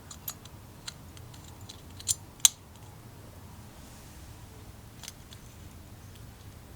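A few sharp clicks and taps of small parts or tools being handled during carburetor work, the loudest about two and a half seconds in, over a low steady hum.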